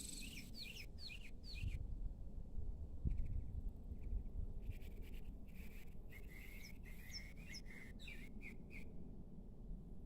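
Small songbirds chirping outdoors: a quick run of short falling chirps at the start, then a longer series of chirps from about halfway through, over a steady low rumble.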